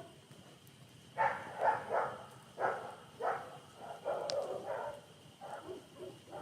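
A dog barking repeatedly in a series of short barks, starting about a second in.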